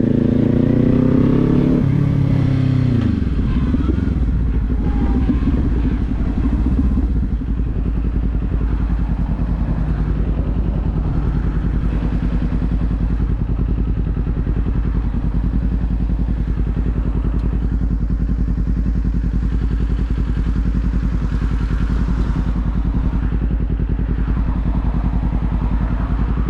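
Kawasaki Z400 parallel-twin motorcycle engine: its revs fall over the first few seconds, then it runs steadily at low revs with an even, rapid pulse.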